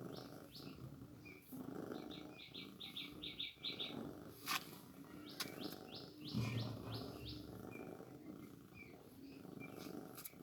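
Mother cat purring steadily while nursing newborn kittens, the purr breaking briefly at each breath. Over it come several quick runs of high chirps, five or six notes each, and a sharp click about halfway through.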